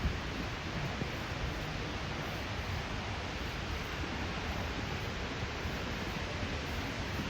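Steady outdoor city street ambience: an even hiss with no distinct events.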